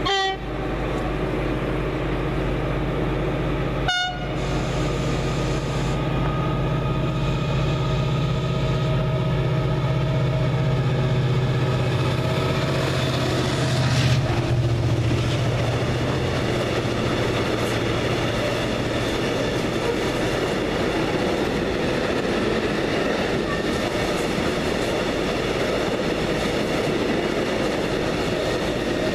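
Diesel freight train passing: the locomotive gives two short horn blasts, at the start and about four seconds in. Its engine drone grows loudest as it passes beneath, about fourteen seconds in, then a long rake of covered hopper wagons rolls by with a steady rolling rumble.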